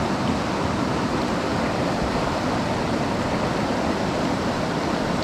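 Steady rushing of a mountain stream's flowing water, an even hiss with no distinct events.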